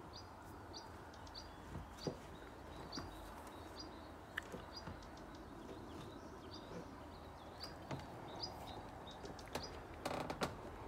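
Faint small-bird chirping: one short, high call repeated about twice a second over quiet outdoor background, with a few light clicks.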